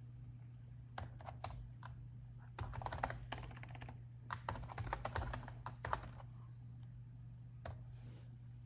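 Typing on a laptop keyboard: a few separate keystrokes, then two quick runs of typing, and one last key press near the end, over a low steady hum.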